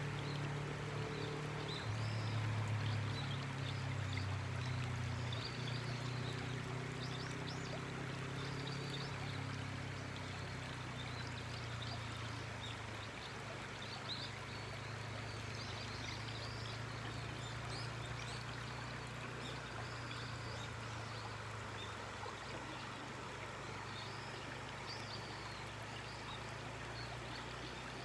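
River water flowing steadily, with many short bird chirps scattered throughout. A low steady hum sits underneath, strongest at the start and slowly fading.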